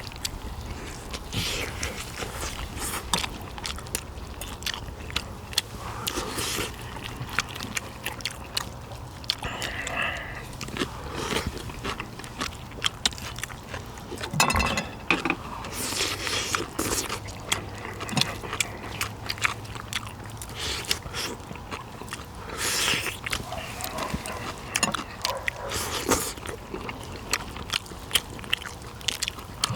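Close-up eating of pork bone soup: chewing and biting meat off pork bones, with many short irregular clicks and wet mouth noises over a steady low hum.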